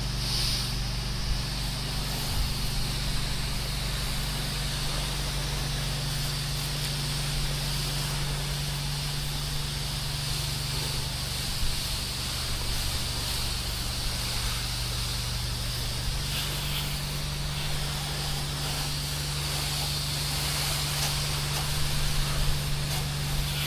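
Pressure-washing rig's motor running steadily with a constant hiss of water spraying; the hum's pitch shifts slightly about two-thirds of the way through.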